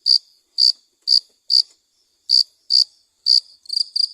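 Cricket chirping: short, high-pitched chirps at about two a second, with a short gap just before halfway and a quicker run of chirps near the end.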